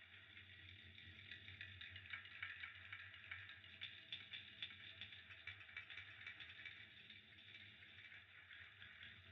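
Fire crackling faintly: a soft steady hiss with many small pops, busiest a couple of seconds in, over a low hum.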